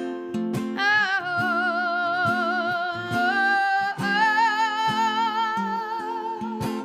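Strummed acoustic guitar under a woman's long, wordless sung note with wide vibrato, starting about a second in and stepping up in pitch twice before it fades near the end.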